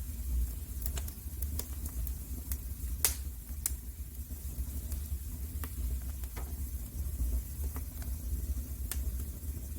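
Wood fire crackling in a fireplace: irregular pops and snaps over a low, steady rumble of burning. The sharpest pop comes about three seconds in.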